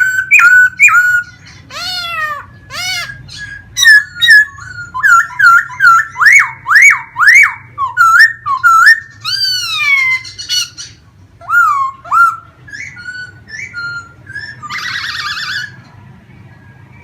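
Laughingthrush singing: loud, varied whistled phrases of quick rising and falling notes. A harsh rasping burst comes about fifteen seconds in, and the song falls quiet near the end.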